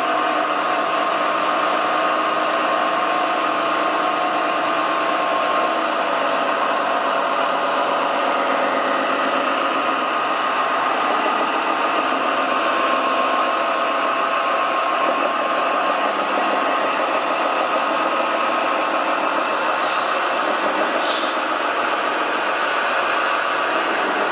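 Remote-controlled scale construction models running, a steady mechanical whine and drone of small motors, with two short high hisses near the end.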